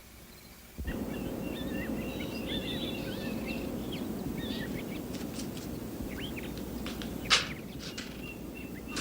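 Small birds chirping in short scattered calls over a steady background hiss of outdoor ambience, beginning about a second in; a single sharp tap sounds late on.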